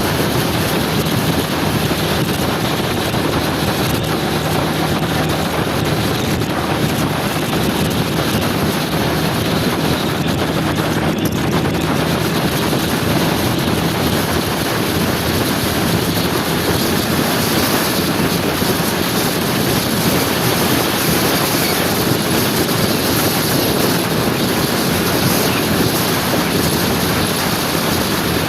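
Steady rush of wind on the microphone with a scooter engine running underneath at an even speed while riding.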